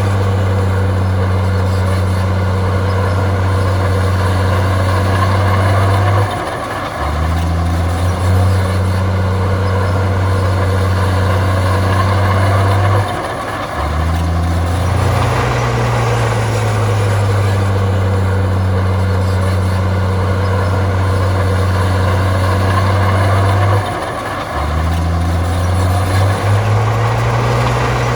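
Heavy diesel engine of a Komatsu bulldozer working with a steady low drone. Three times, about every ten seconds, the engine note drops briefly, then climbs back in pitch as its load changes.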